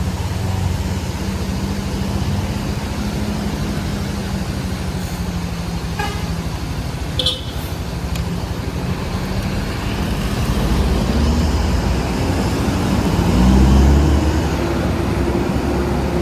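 Bus engine running steadily, then climbing in pitch as it revs up about ten seconds in, loudest near the end.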